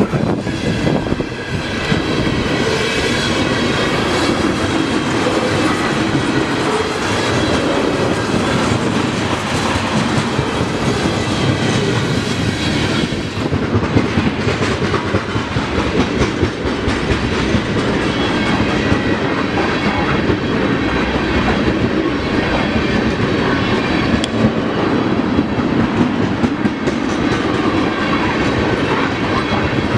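A Canadian Pacific freight train's cars rolling steadily past, wheels clicking over the rail joints under a continuous rumble, with a faint high wheel squeal.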